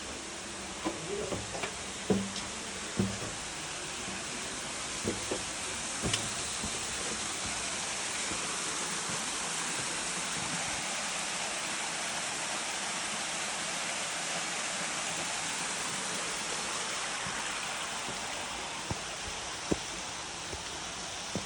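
Steady rushing of a waterfall that swells in the middle and eases slightly near the end. A few low thumps come in the first six seconds.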